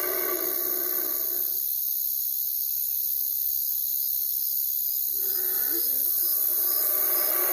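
Owl hooting: pitched calls that fade out after the first second or so and start again about five seconds in, over a steady high hiss.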